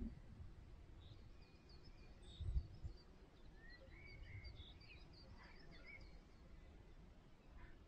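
Faint birdsong: small birds giving scattered short chirps and whistles, with a brief low rumble about two and a half seconds in.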